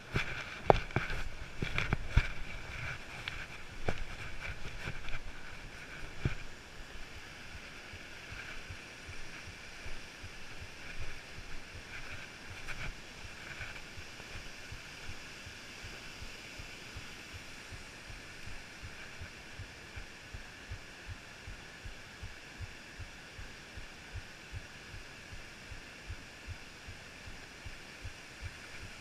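Footsteps of a hiker walking up a trail, a regular step about twice a second, over a low steady wind rumble on the camera's microphone, with a few louder knocks in the first few seconds.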